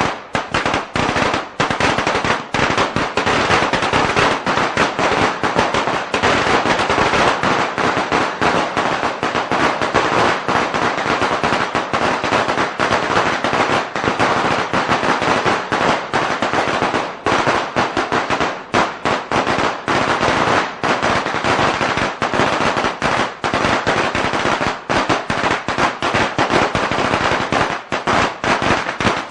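A long string of firecrackers going off in a continuous rapid crackle of bangs, with no pause.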